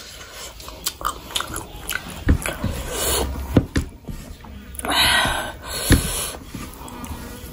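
Close-miked eating sounds: wet chewing and smacking of a mouthful of rice and curry, with squishy sounds of fingers mixing rice and curry on the plate. There are short clicks throughout and a few dull thumps.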